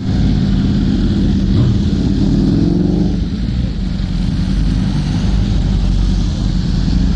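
Motorcycle engine running under way, its revs climbing for about three seconds and then easing off, over a steady low rumble.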